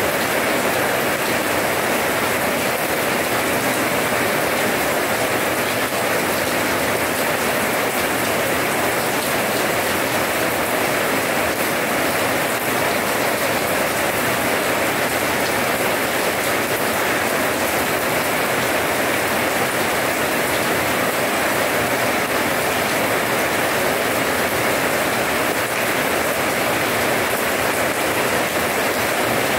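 Steady rain falling on wet paving stones, an even, unbroken sound of drops splashing on the puddled ground.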